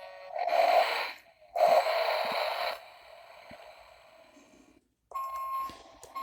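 Sound effects from a battery-powered toy truck's sound buttons, played through its small speaker: two loud, raspy, noisy blasts in the first three seconds, fading away. From about five seconds in comes an electronic beeping tone that repeats.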